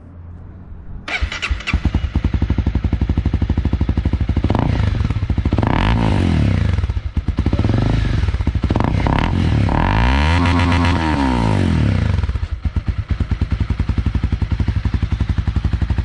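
Honda CB300R single-cylinder motorcycle engine, breathing through a freshly fitted Yoshimura carbon-fibre slip-on exhaust, starts about a second in and idles. It is then revved several times, the longest rise and fall coming about ten seconds in, before it settles back to idle.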